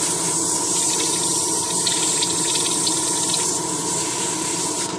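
Spray booth exhaust fan running steadily with a hum, under a loud steady hiss of rushing air that cuts off near the end.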